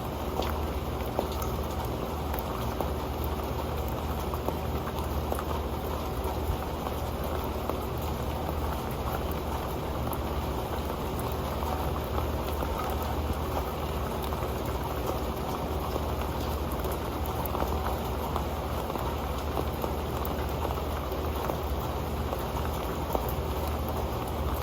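Steady rain falling on an old pan: a dense, even patter of drops with many small, sharp ticks scattered through it.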